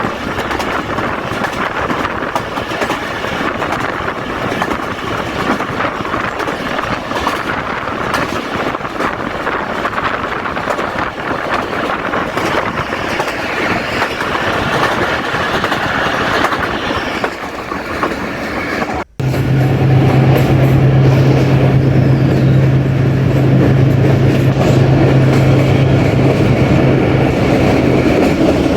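Jaffar Express passenger train running along the track, heard from on board as steady wheel-and-carriage noise. About two-thirds of the way through the sound breaks off for an instant and comes back louder, with a steady low hum under it.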